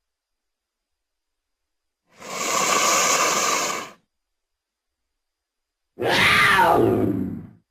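Two separate saber-toothed cat (Smilodon) creature sound effects with silence between them: first a harsh, noisy call about two seconds long with no clear pitch, then a shorter roar that slides down in pitch.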